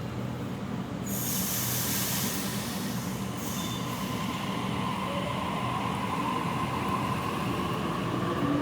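Sydney Trains Waratah electric train running along the platform: a steady low hum with hiss and a high steady tone, and a whine rising in pitch near the end.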